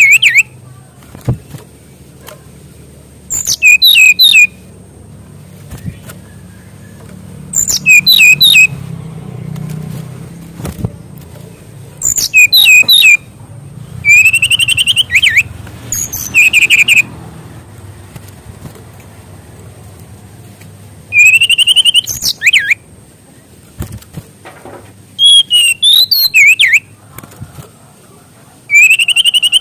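SRDC (sikatan rimba dada coklat) songbird singing short, loud phrases of quick whistled notes that slide up and down, about one phrase every four seconds, with a faint steady hum in the pauses.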